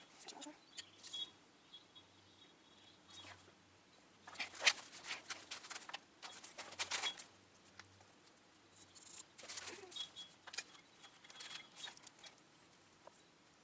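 Small carburetor parts handled and poked through by hand while being cleaned: irregular light clicks and scraping rustles, with louder scraping bursts about four and a half, seven and ten seconds in.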